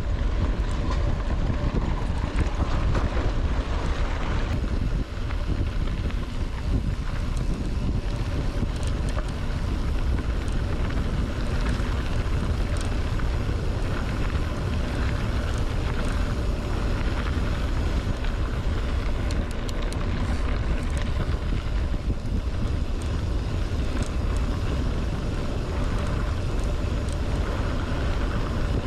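Heavy wind buffeting the microphone of a bicycle-mounted camera during a mountain bike ride, a steady low rumble with faint scattered clicks.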